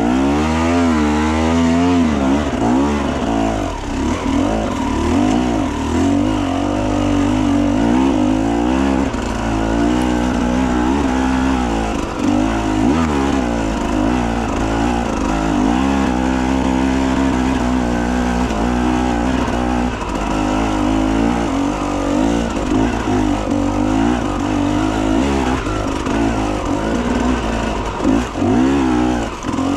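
Enduro motorcycle engine running under constant throttle changes, its pitch rising and falling over and over as the bike is ridden off-road.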